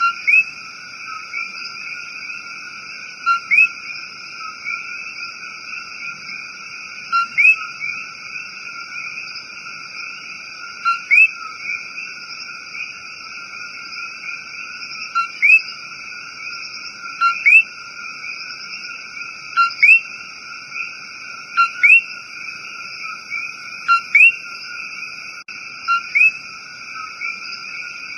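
Common coquí frogs calling in a dense, steady chorus. A nearer frog stands out, repeating its two-note "co-qui" about every two seconds: a short low note, then a rising whistle.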